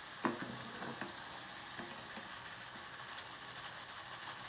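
Cheeselings (small squares of maida and cheese dough) sizzling steadily as they deep-fry in hot oil, fried and ready to come out. A few light clinks come as a wire spider strainer scoops them, the clearest about a quarter second in.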